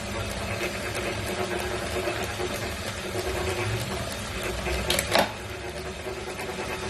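Wahoo Kickr V5 direct-drive smart trainer running with a steady whirring grind, a fault in a new unit. A sharp knock about five seconds in.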